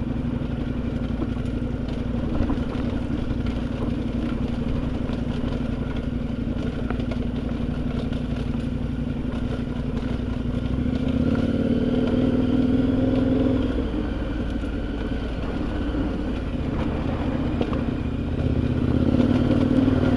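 Adventure motorcycle engine running steadily under way. It grows louder as the rider opens the throttle about eleven seconds in, settles back, then picks up again near the end.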